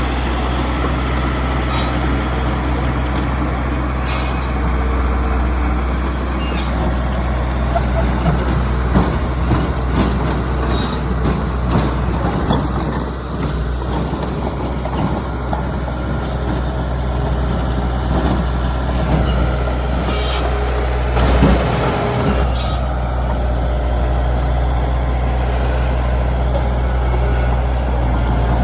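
Heavy diesel engine running steadily at a low speed, with scattered knocks and short hisses, typical of a dump truck's air brakes and a bulldozer working.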